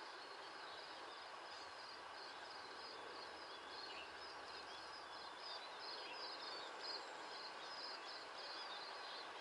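Birds chirping rapidly and continuously in short, high notes over a faint, steady background hum of outdoor noise.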